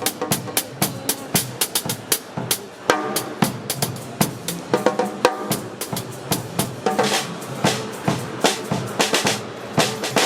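Drum kit played in a busy groove: quick, even cymbal or hi-hat strokes over snare and bass drum hits, with some ringing drum notes partway through.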